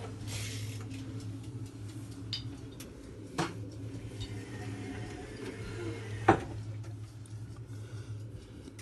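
Zanussi Lindo 100 front-loading washing machine running its wash: a steady low hum with two sharp clicks a few seconds apart and a brief hiss near the start.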